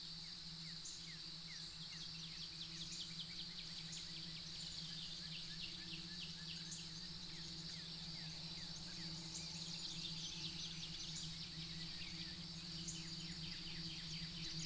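Faint outdoor dawn ambience: many short bird chirps over a steady high-pitched drone and a low steady hum.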